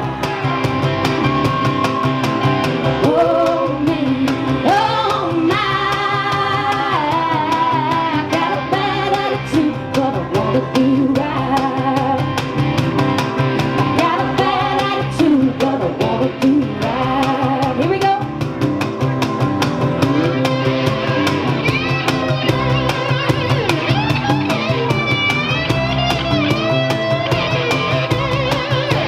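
Live band playing a song: a singer's melody over guitar and drums with a steady beat.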